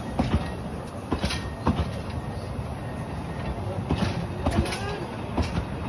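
Narrow-gauge railway train running: a steady low rumble with irregular knocks and clatter.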